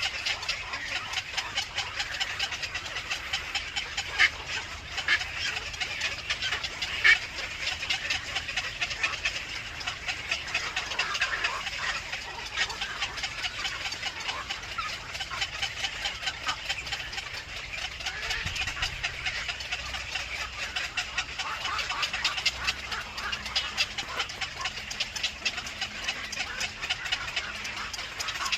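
Birds chirping and chattering continuously in a rapid, busy stream of short calls, with two sharper, louder calls about four and seven seconds in.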